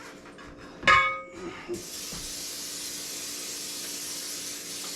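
A single ringing metal clank about a second in, then an aerosol can of cooking spray hissing steadily as it coats a small baking pan, starting abruptly just under two seconds in.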